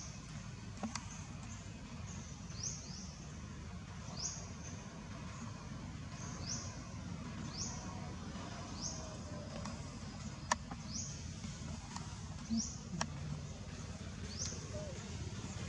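A bird repeating a short, high rising chirp every second or so over a low steady rumble, with a few sharp clicks, the loudest about ten seconds in.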